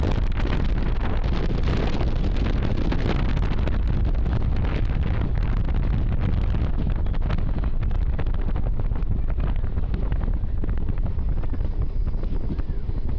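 Wind buffeting the microphone over the steady running noise of a moving train, with many short rattles and clicks scattered through it.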